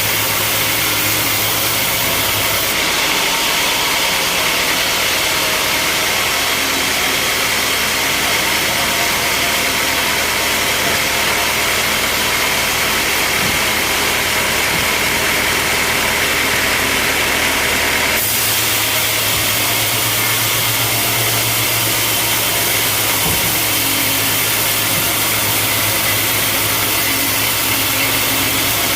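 Sawmill machinery running steadily, a loud even mechanical drone with no pauses. Its tone shifts abruptly about three seconds in and again just past halfway.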